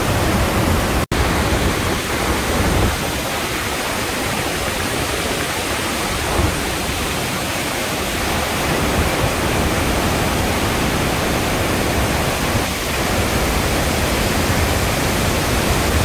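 Loud, steady rush of water from the Iguazu Falls, with a momentary break about a second in.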